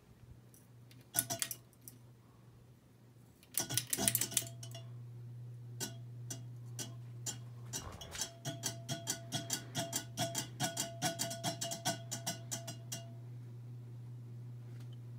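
Harbor Breeze Armitage 42-inch ceiling fan with its motor humming steadily. There are a few sharp clicks about a second in and again around four seconds. A fast, even run of light metallic ticks with a faint ring starts about eight seconds in and stops near thirteen seconds.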